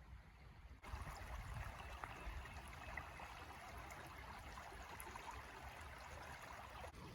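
Small stream running: a faint, even rush of water that starts abruptly about a second in, over a low rumble.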